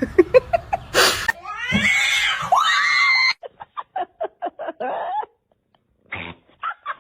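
Cats meowing and yowling: a few short meows, a loud noisy burst about a second in, then drawn-out yowls, followed by quick runs of short meows broken by a sudden silence.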